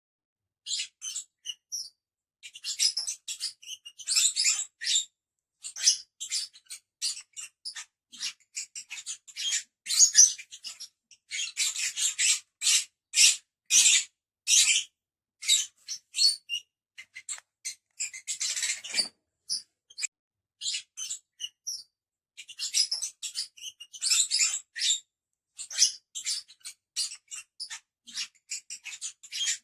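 Pet lovebirds chattering: quick, high-pitched chirps in bursts, with brief gaps between them.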